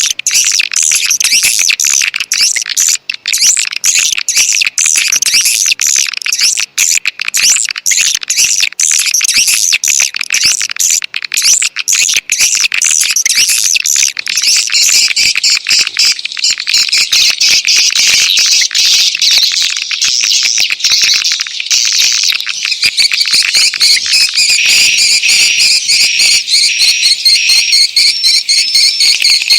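Swiftlet calling recording (suara panggil walet): a loud, continuous chatter of rapid high-pitched swiftlet twitters and chirps. This kind of track is played to lure edible-nest swiftlets into a nesting house. From about two-thirds of the way in, the chirping turns more even and rhythmic, with a lower, stronger twitter.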